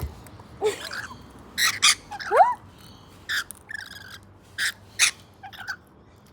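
Parrots squawking: a string of short, harsh calls every half second to a second, with one rising call about two and a half seconds in.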